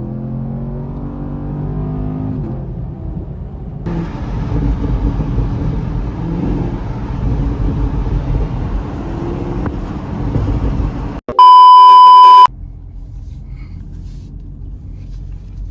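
Car engine accelerating, its pitch rising over the first couple of seconds, then steady engine and road noise. About eleven seconds in, a loud, flat electronic censor bleep lasting about a second cuts over everything. After it the car noise carries on more quietly.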